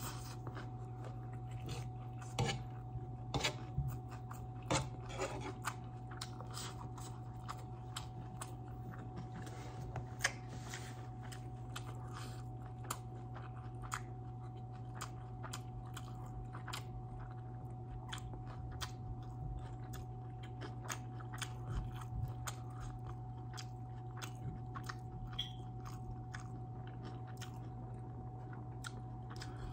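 Close-up mouth sounds of a person chewing food, with many small wet clicks and smacks, busiest a few seconds in. A steady low hum and a thin steady tone run underneath.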